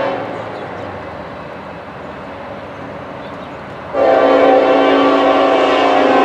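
Norfolk Southern freight locomotive NS 1070, an EMD SD70ACe, sounding its multi-chime air horn as the train passes: a blast tailing off just after the start, a few seconds of quieter train running noise, then a long, louder horn blast starting about four seconds in.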